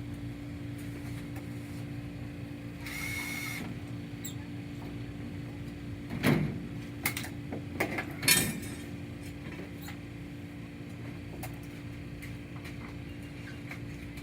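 A cordless driver whirs briefly about three seconds in, followed by scattered knocks and clinks of screws and metal parts being handled, over a steady low hum.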